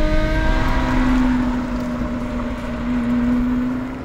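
Lotus Exige V6's supercharged 3.5-litre V6 running hard at speed, its note rising slowly, over road and wind noise.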